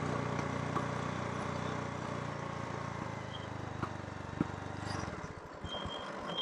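Motorcycle engine running steadily, then faltering and dying away about five seconds in: the engine stalling, which it keeps doing for no reason the rider can find.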